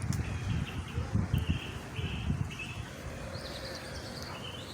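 A bird calling over and over outdoors, short chirps about twice a second, with a low rumble on the microphone in the first couple of seconds.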